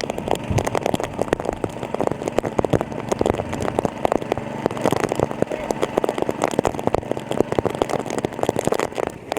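Small engine of a water pump running steadily, with a dense, fast clatter over its hum.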